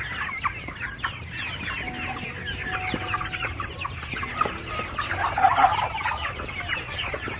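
A flock of young chickens clucking and chirping all at once while feeding on live superworms, with many short overlapping calls and a louder burst about two-thirds of the way through.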